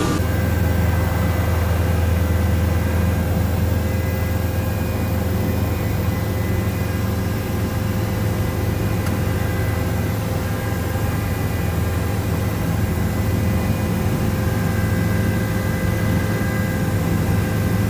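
Helicopter running steadily: a constant low drone from the engine and rotor, with several steady whining tones above it.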